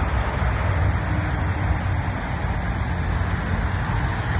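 Steady road and tyre noise of a car driving in traffic, a low rumble with an even hiss above it and no distinct events.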